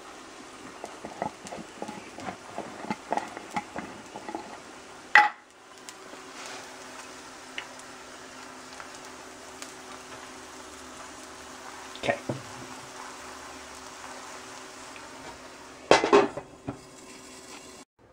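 Clicks and rattles of a plastic jar's screw lid being opened and the jar handled for the first few seconds, with a sharp knock about five seconds in. Then patty pan squash slices frying in oil in a cast iron skillet with a faint, steady sizzle while seasoning is shaken over them, and a couple of knocks near the end.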